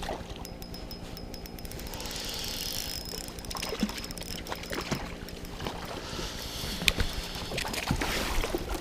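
Fishing reel being wound to bring in a hooked trout, with a fast run of mechanical clicks and then scattered ticks.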